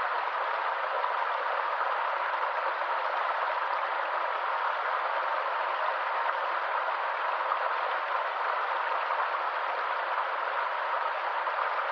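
Stream water running in a steady, unbroken rush, with no single splash or other sound standing out.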